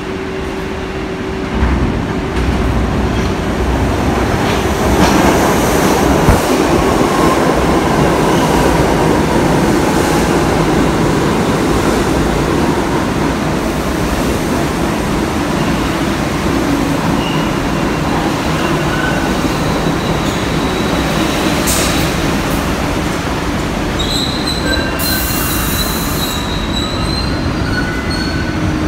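A train running on the rails, a loud steady rumble that swells about two seconds in, with thin high-pitched wheel squeals in the last few seconds.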